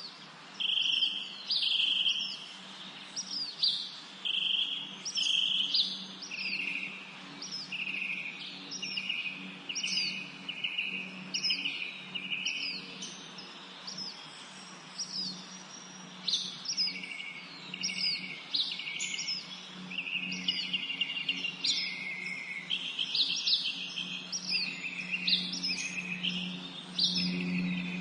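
Songbirds chirping and singing in a spring forest, a dense run of short repeated calls, each a quick falling note followed by a buzzy trill, coming about once or twice a second.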